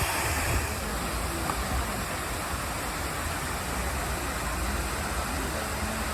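Steady rushing of a city river waterfall, the Reedy River falls in Greenville, heard from a bridge overlook.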